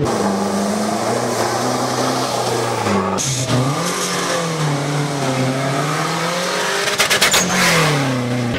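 Off-road rally vehicle engines revving and accelerating hard on sand, the pitch rising and falling as they gather speed. A quick burst of sharp cracks comes about seven seconds in, followed by a rising engine note.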